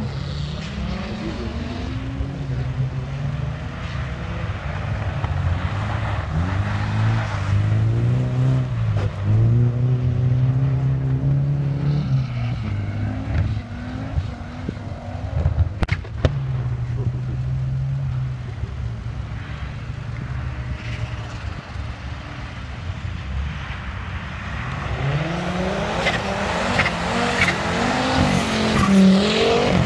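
Rally car engines revving hard and easing off as cars drift through a snowy corner, the pitch rising and falling again and again, with one sharp crack about halfway through. Near the end a white Audi saloon slides past close by and its engine grows loudest.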